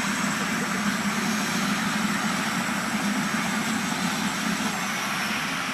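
Helicopter engine and rotor running with a steady drone over a constant rushing hiss.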